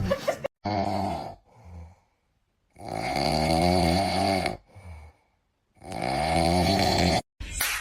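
A pet snoring: three long, rattling snores, each with a wavering pitch, separated by silent pauses.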